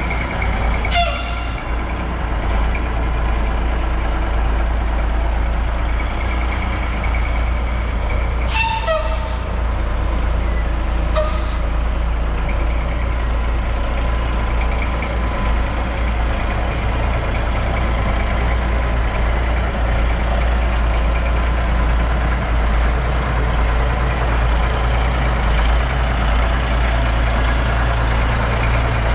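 Heavy truck engine running with a steady low rumble, with three short sharp hisses of air about one, nine and eleven seconds in.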